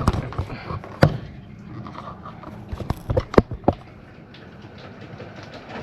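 A few sharp knocks at uneven spacing: one at the start, one about a second in, and a quick run of four about three seconds in.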